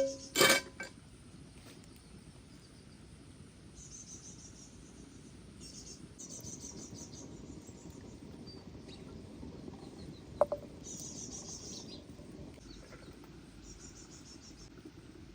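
Insects chirping outdoors in short bursts of quick, high pulses, several times over a steady low background. A sharp knock comes just after the start and another about ten and a half seconds in.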